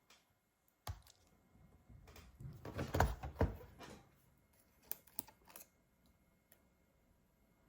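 Scattered light clicks and rubbing of a laptop and small tools being handled during repair, busiest from about two to four seconds in.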